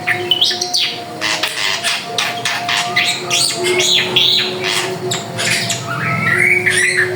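Drongo (srigunting) singing a rapid, varied run of sharp chattering notes, squawks and short whistled glides.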